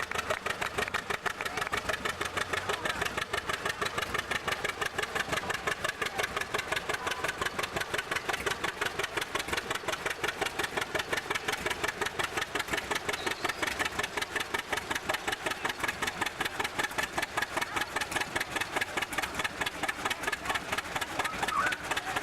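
Farm tractor engine running with a steady, even pulse that neither rises nor falls.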